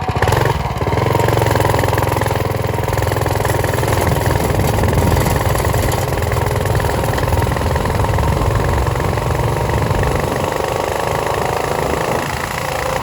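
Motorcycle engine running loud and steady while riding, its pitch climbing slowly, then easing off near the end.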